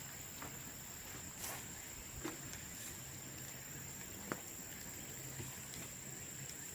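Bamboo bonfire crackling, with a few scattered sharp pops, the sharpest a little past halfway, over a steady high-pitched whine.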